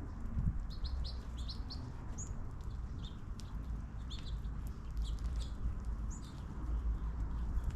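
Small birds chirping: many short, high chirps coming one after another in quick, irregular runs, over a steady low rumble.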